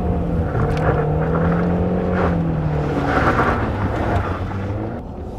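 Ford Fusion's engine running steadily under throttle, heard from inside the cabin, as the car loses momentum in snow. Two bursts of rushing noise come about two and three seconds in, and the engine eases off near the end.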